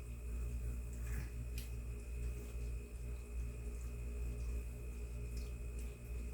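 Thickened sweet-and-sour sauce simmering with chicken in a pan on the burner: a few soft pops over a steady low hum.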